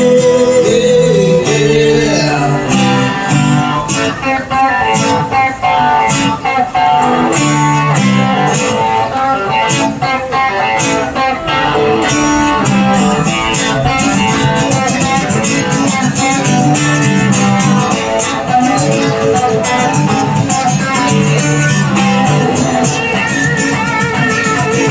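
Live band playing an instrumental passage: guitars carrying a bluesy rock solo over bass and drums.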